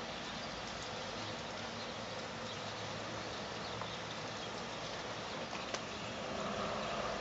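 Steady rain falling: an even hiss with a few separate drop ticks, growing a little louder near the end.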